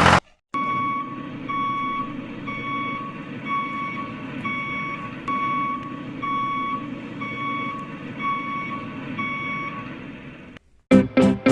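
Electronic beeper sounding a steady, evenly spaced beep about twice a second, like a vehicle's reversing alarm, over a low motor hum. It cuts off suddenly near the end and plucked guitar music starts.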